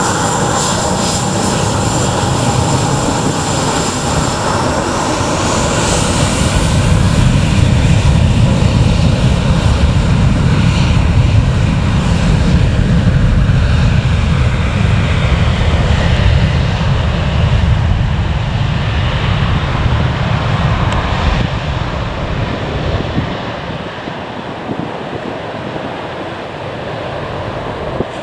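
Departing airliner's engines at takeoff power. A high whine comes first, then a deep rumble builds to its loudest about halfway through and slowly fades over the last several seconds.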